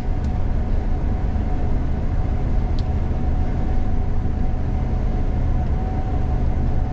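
Gleaner combine harvester running steadily, heard from inside the cab: a constant low drone with a faint steady whine above it.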